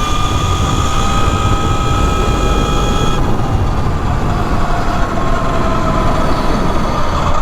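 E Ride Pro SS 3.0 electric dirt bike's motor whining under way. The pitch creeps up, then from about three seconds in slowly falls as the bike slows. Heavy wind rumble on the microphone runs under it.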